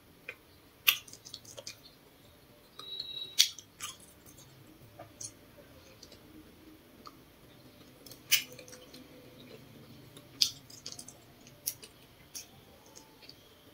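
Close-up eating sounds: chewing soft grilled potato cake, with sharp wet mouth clicks and smacks every couple of seconds.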